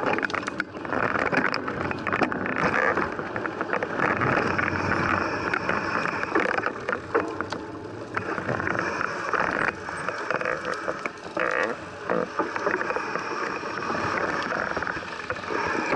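A group of mountain bikers setting off together: a busy mix of bike noise with scattered clicks and knocks.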